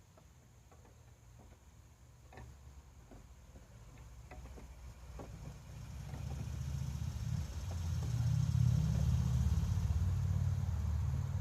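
A motor vehicle's engine rumble comes up from about five seconds in, grows louder and holds steady. Before it, scattered light clicks and taps of a wire tool working against a car door.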